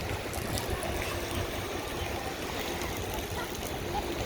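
Wind rumbling and buffeting on the microphone over a steady outdoor rushing noise, with faint voices.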